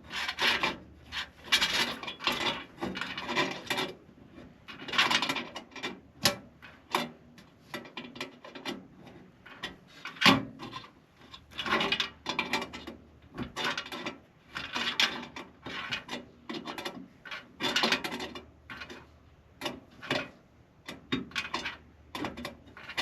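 Rummaging through tools and hardware: repeated scraping, rubbing and clattering in bursts, with one sharper knock about ten seconds in.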